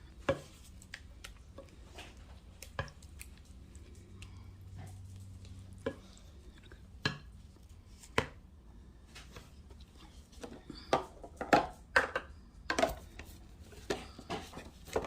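Kitchen handling sounds: scattered light clicks and knocks of a utensil and dish, coming more often and louder in the last few seconds.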